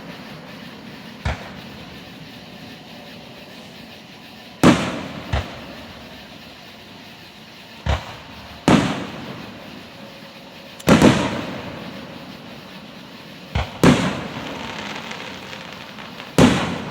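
Aerial firework shells bursting, about eight sharp booms a second or several apart, some in quick pairs, each trailing off in a long fading rumble.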